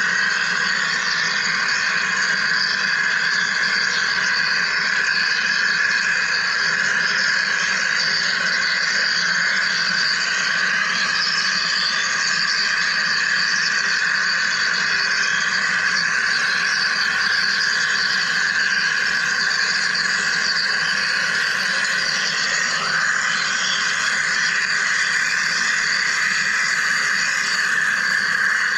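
Wire EDM machine running a cut, giving a steady, even hissing buzz.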